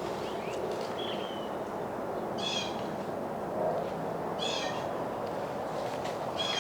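Bird calls: short, high, harsh calls repeated roughly every two seconds, over a steady low background noise.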